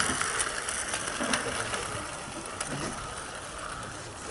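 16mm-scale garden railway train running on the track: a steady mechanical rattle with a few light clicks, slowly fading.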